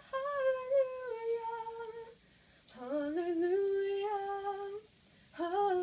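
Solo female voice singing unaccompanied, holding long notes on the chorus word "hallelujah". Three drawn-out phrases come with short pauses between them.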